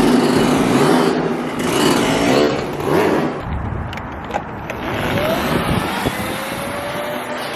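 Dirt bike engine revving, its pitch rising and falling as the throttle is worked.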